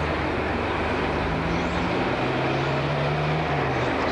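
Diesel train approaching: a steady low engine drone whose pitch shifts a little, over a constant rumble.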